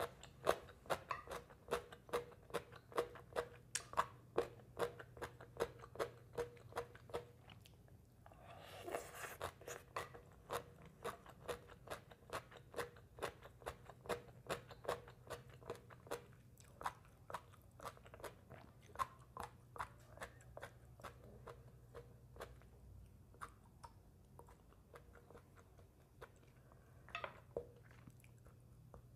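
Close-miked chewing of crunchy green papaya salad, a steady run of crisp crunches about three a second that thin out in the second half. There are two short louder breathy noises, one about a third of the way in and one near the end.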